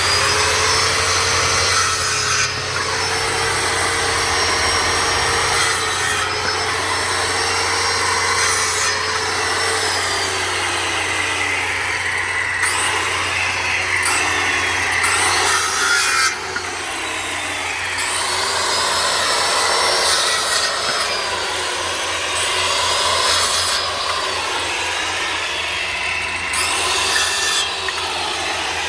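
Electric power saw cutting firewood, running continuously with brief breaks every few seconds. Its motor pitch sags and recovers over and over as the blade bites into the wood.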